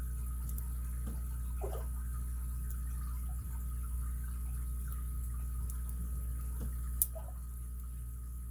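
Faint metallic ticks and scrapes of a lock pick working the pins of an ABUS 83CS/55 padlock under light tension, with one sharp click about seven seconds in, over a steady low hum.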